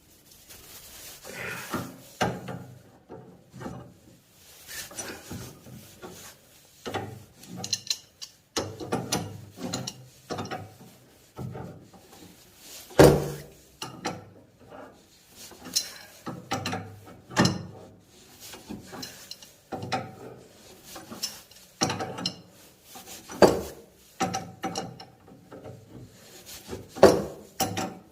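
Wrench working a short threaded pipe nipple loose from a brass heating-pipe fitting: irregular metal clicks, knocks and scraping, with the loudest knock about 13 seconds in.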